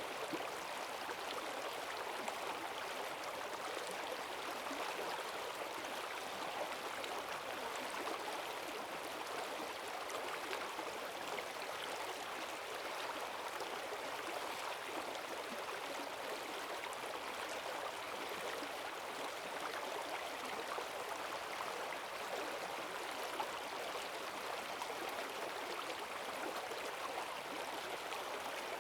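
Forest stream swollen by heavy rain, rushing water with a strong current running over stones, a steady gurgling wash.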